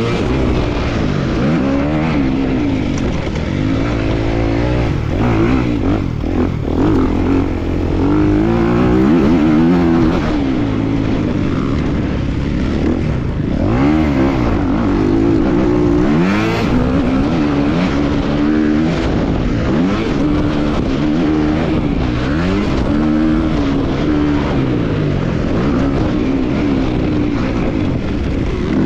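250cc motocross bike engine revving hard and backing off over and over, its pitch climbing and dropping every second or two as it accelerates and shifts around the track.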